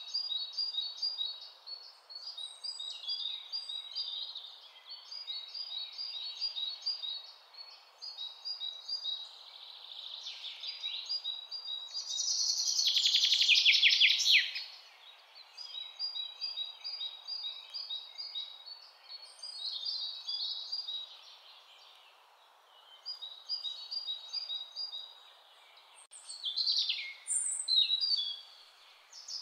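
Birds chirping and singing over a faint steady hiss, with a louder rapid trill about halfway through and another near the end.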